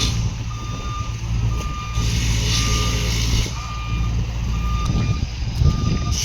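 A work vehicle's reversing alarm beeping a single steady tone about once a second as it backs up, over the steady low running of its engine.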